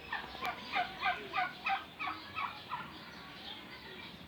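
Turkey gobbling: a quick run of about ten short falling notes, loudest early on and dying away about three seconds in.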